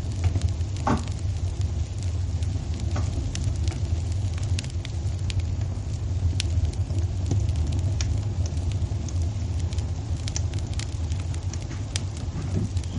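Wood fire crackling in a fireplace: scattered sharp pops and snaps over a steady low rumble, with one short falling sound about a second in.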